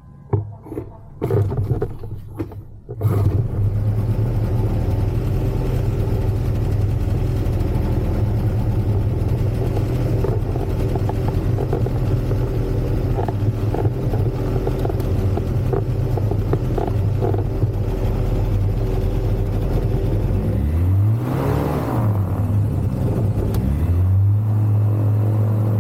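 Ultralight aircraft engine that comes in suddenly after a few short bursts and then runs loud and steady. Near the end its pitch dips and recovers twice.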